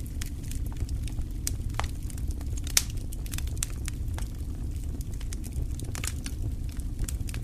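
Wood fire crackling in a fireplace: irregular sharp pops and snaps, one louder snap a little under three seconds in, over a steady low rumble of the flames.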